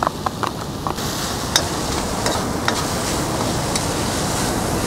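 Blended chilies frying with onion, garlic and ginger in a wok, a steady sizzle that grows a little about a second in, while a metal spatula stirs and clicks against the wok a few times.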